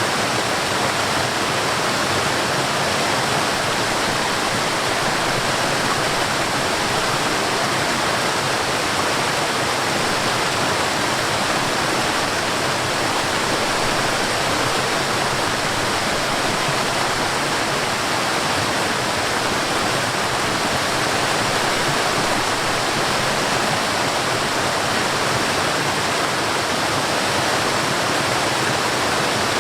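Mountain stream and waterfall: water rushing and splashing in a steady, unbroken hiss.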